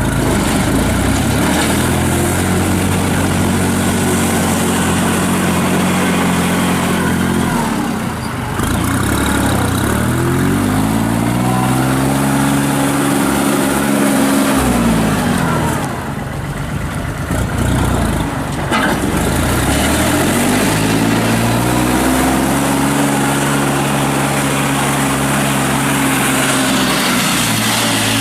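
2007 Kubota L39 tractor's diesel engine running, its speed rising and falling several times. It is throttled up about a second in and eases off around eight seconds, then climbs again from about ten seconds and holds high. It drops near sixteen seconds, climbs once more around twenty, and falls back near the end.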